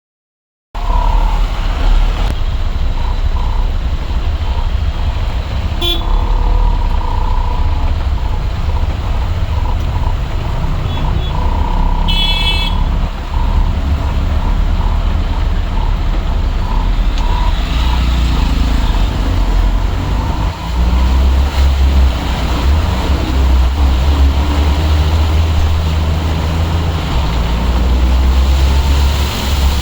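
Congested road traffic: a heavy low engine rumble with vehicle horns honking again and again, mostly short toots and a few longer blasts, and a higher-pitched horn about twelve seconds in.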